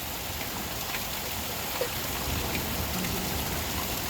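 Heavy rain pouring down, a steady dense hiss with a few sharper drop hits.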